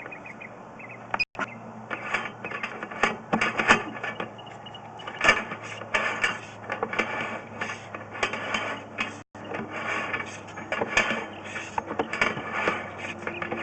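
Sewer inspection camera and its push cable working through a drain pipe: irregular clicking, rattling and scraping over a steady low hum.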